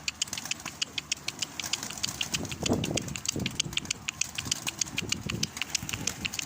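Domestic pigeons cooing, low and repeated, over a fast, steady high ticking chirp of about five a second.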